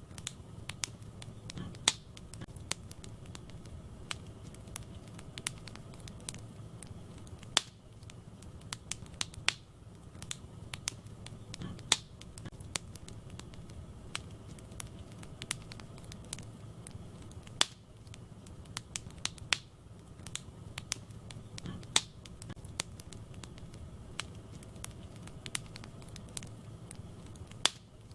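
Wood fire burning in a fireplace: a low steady rumble of flames under irregular crackling, with sharp pops from the burning wood several times a second and a few louder snaps.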